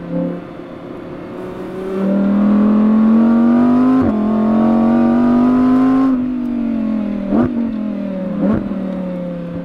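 Audi R8 V10 GT RWD's 5.2-litre V10 under hard acceleration: it comes in about two seconds in, with the revs climbing through a quick upshift, then it lifts off with the revs falling and two short, sharp rev blips on the way down.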